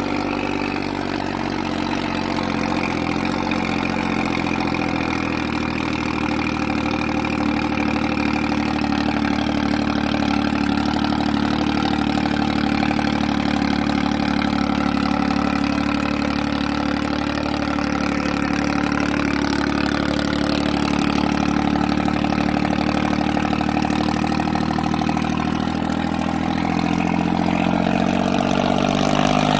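Tractor diesel engine running steadily at idle, its revs rising near the end.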